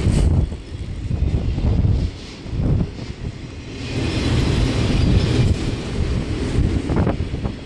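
Freight train of autorack cars rolling past close by: a heavy, uneven rumble of wheels on the rails, with a few sharp clicks near the end.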